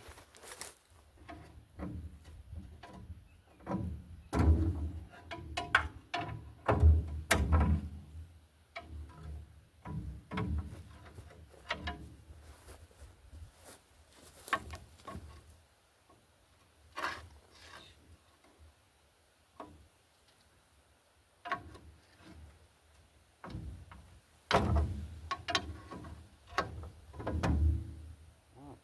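Irregular metal clunks, knocks and rattles from tools and front-suspension parts being worked on during coil spring removal, bunched in two busier spells with quieter gaps between.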